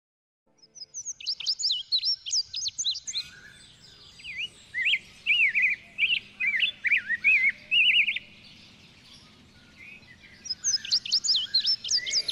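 Birdsong: a bird chirping in quick runs of short, high, sliding notes, in three spells with pauses between them.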